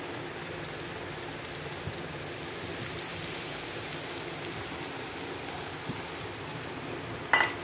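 Spice paste mixed with water sizzling steadily in hot oil in a metal kadai, with one sharp knock near the end.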